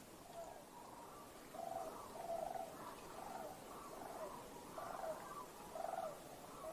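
A run of about ten short, raspy duck quacks, spaced roughly half a second to a second apart.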